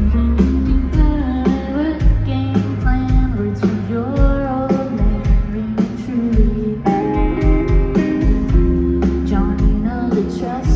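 Live indie rock band playing a song: steady drum beat, bass and guitar, with a lead vocal singing over them.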